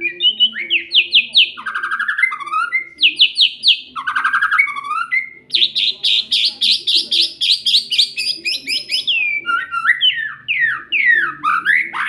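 Pet songbird singing loudly and continuously: a varied song of fast repeated-note trills, switching between higher and lower phrases, with one long rapid trill in the middle and quick down-slurred notes near the end.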